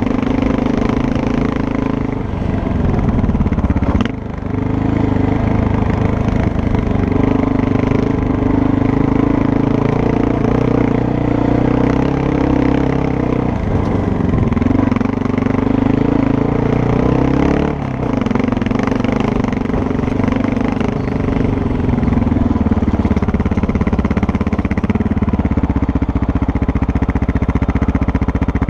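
Motorcycle engine running steadily under way on a dirt ride, heard close up over a rush of wind and road noise. Its note dips sharply and picks back up about four seconds in, and again around fourteen and eighteen seconds in.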